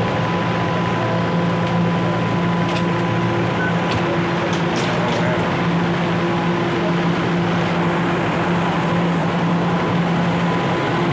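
Steady electrical hum and rumble of a subway train standing at the platform, holding several constant tones over a noisy background.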